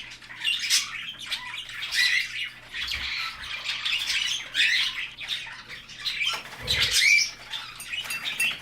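Pet budgies chattering and squawking in short repeated calls, with a brief low thud about seven seconds in.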